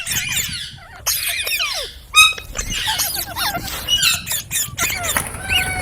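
Green parrots chattering: a steady run of short, shrill squeaks and squawks that swoop up and down in pitch, several calls overlapping.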